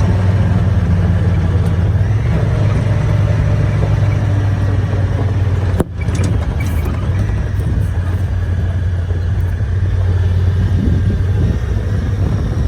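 Motor vehicle engine running steadily under way, a low even hum with road noise over it, briefly cut off about six seconds in.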